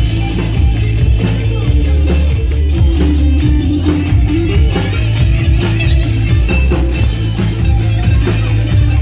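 Live band playing an instrumental break between sung verses, with a steady beat and a heavy bass line.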